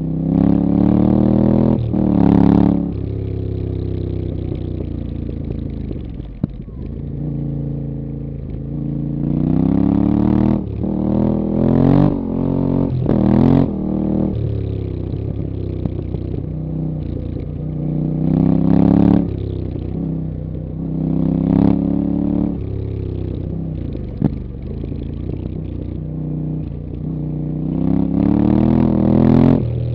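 Yamaha Ténéré 700's 689 cc parallel-twin engine through a Camel ADV rally-bend exhaust on stock headers, under way. It pulls hard several times, its pitch climbing and then dropping at each gear change, with steadier running in between.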